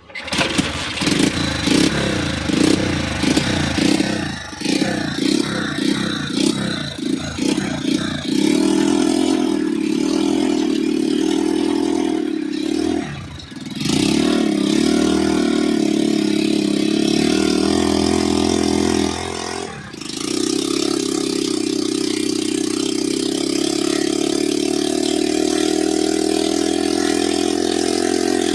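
Old Ruston diesel engine starting: uneven beats over the first several seconds, then it settles into steady running. The sound drops out briefly twice, about 13 and 20 seconds in.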